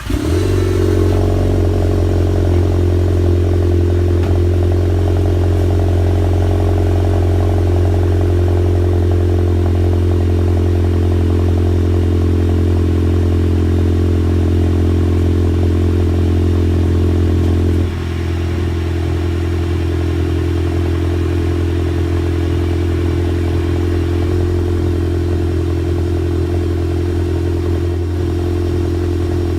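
Volkswagen Golf MK7 1.8 TSI turbo four-cylinder starting up, then idling steadily through a straight-through 3-inch Magnaflow cat-back exhaust with no resonator or muffler. About 18 seconds in, the idle steps down to a slightly lower, quieter note.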